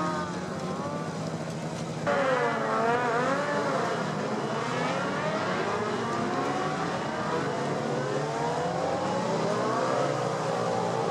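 Racing motorcycle engines at high revs on the circuit, their pitch rising and falling again and again as they change gear and pass, several bikes overlapping. A louder bike cuts in about two seconds in.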